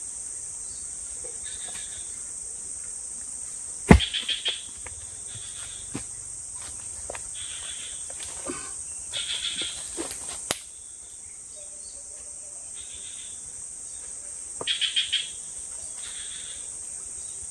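Forest insects, crickets and cicadas, keep up a steady high-pitched drone, with short pulsed chirping bursts coming and going. A few sharp knocks sound over it, the loudest about four seconds in.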